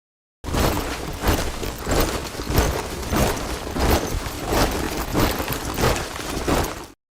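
A body of soldiers marching in step, their boots hitting the ground together in a heavy tramp about every two-thirds of a second. It starts abruptly about half a second in and cuts off sharply near the end.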